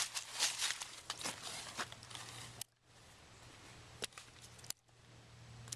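Footsteps and rustling of someone walking, for the first half. Then quieter, with a faint hiss and a few sharp clicks.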